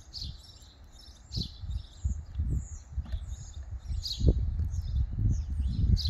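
Small birds chirping in short, repeated high calls, over a low rumble that comes and goes in gusts.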